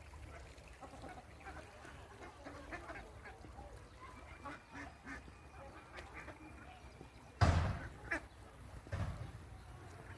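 Ducks quacking, a stream of short scattered calls. About seven seconds in there is a loud sudden bump, then two smaller ones.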